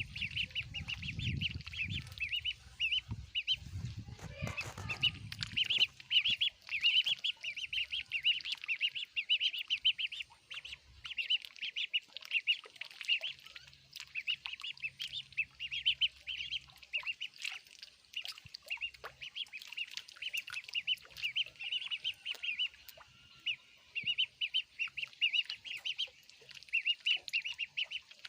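A group of ducklings peeping continuously, many short high peeps overlapping every second. A low rumble sounds under them for the first six seconds.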